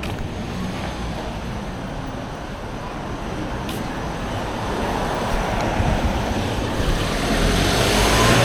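A road vehicle approaching on the street, its engine and tyre noise growing steadily louder toward the end.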